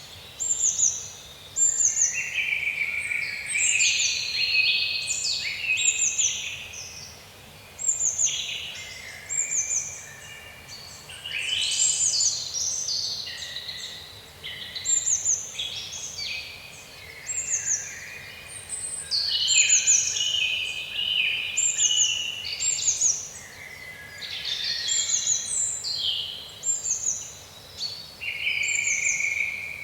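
Birds singing: a busy stream of short, quick downward-sliding chirps and trills from several birds overlapping, with no let-up.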